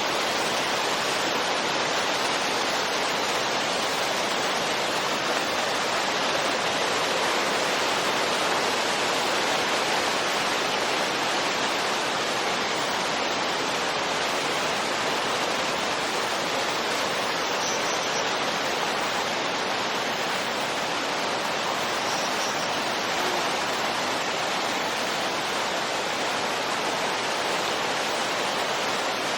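Wind-style white noise: a steady, even rushing hiss with no gusts or swells.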